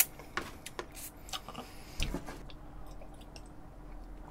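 Close-miked chewing of a mouthful of tomato spaghetti: irregular wet clicks and smacks from the mouth.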